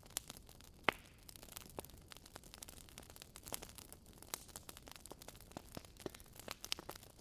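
Wood fire crackling: burning logs giving off irregular sharp pops and snaps, one louder pop about a second in, over a soft hiss.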